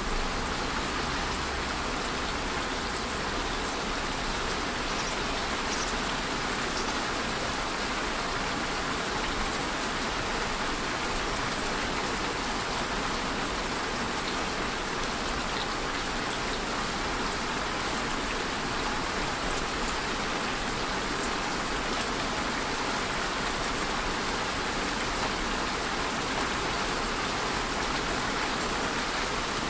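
Steady rain falling, an even hiss of drops on a surface with no change in strength.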